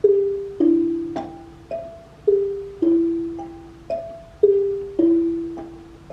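Xylophone playing the falling two-note cuckoo call over and over, alternating between a low register and a higher one. The low calls come three times and are the loudest; each struck note rings and fades.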